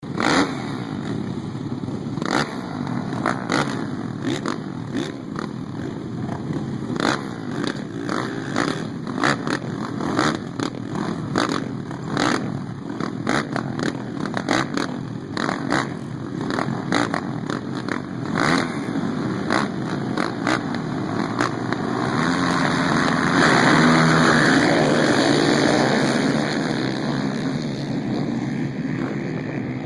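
Motocross bikes running on the starting line, broken by many sharp knocks, then the field revving hard together about 22 seconds in. That is the loudest stretch, lasting a few seconds before easing off.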